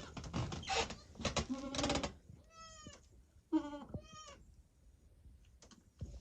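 Rustling and knocking for about two seconds, then Kiko goats bleating: one wavering call, then two shorter calls close together.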